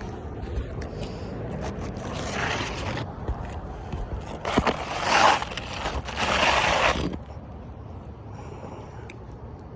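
Several bursts of scraping and rustling on a shingle roof, the loudest about five seconds in, over a steady low rumble; it dies down after about seven seconds.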